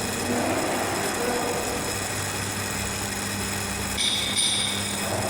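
A continuous-flow vermicompost machine running steadily with a motor hum, and a brief high-pitched squeal about four seconds in.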